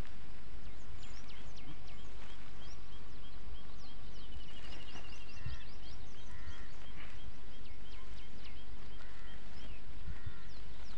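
Small birds chirping, many short high calls, with a rapid trill about five seconds in, over steady outdoor background noise.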